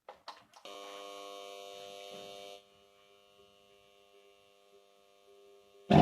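A few faint clicks, then a steady electrical buzz for about two seconds. Near the end an experimental deflagration ramjet engine lights: a sudden, very loud rush that keeps running.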